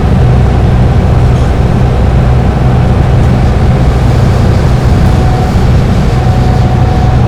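Dennis Trident double-decker bus engine running steadily under way at highway speed. A faint high whine comes in about five seconds in.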